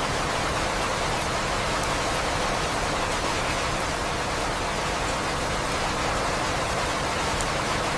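Steady, even rain with faint drop ticks.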